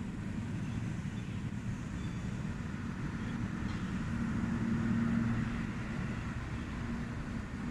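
Military helicopter flying overhead: a steady low rotor thudding with an engine hum, swelling to its loudest about five seconds in as it comes closest, then easing off.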